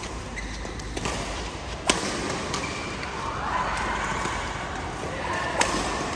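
Badminton racket hitting a shuttlecock: a few sharp cracks, the loudest about two seconds in and another near the end, over steady background hubbub.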